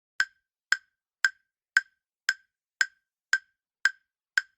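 Quiz countdown-timer sound effect: a steady run of short, sharp ticks, about two a second, nine in all.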